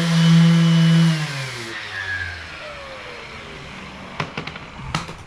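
An electric motor running steadily with a high hiss, switched off about a second in and winding down, its pitch falling over the next two seconds. A few light clicks and knocks follow near the end.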